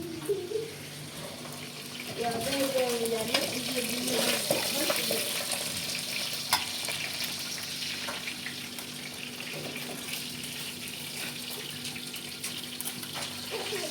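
Water running steadily, as from a tap, with a few sharp clicks and faint voices in the background.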